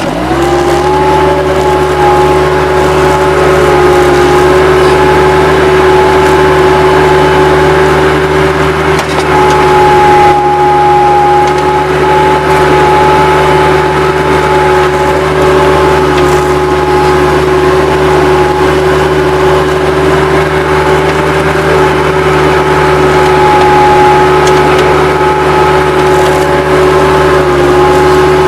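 Bobcat 763 skid-steer loader's diesel engine throttled up in the first second, then running steadily at high revs with a steady whine over it.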